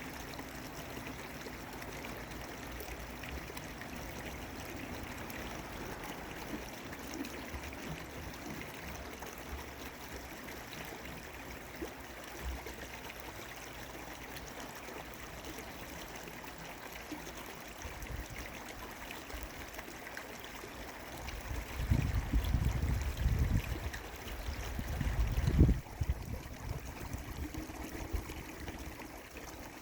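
Steady rush of a flowing stream. About three-quarters of the way in come several seconds of loud, low rumbling, which is the loudest thing here.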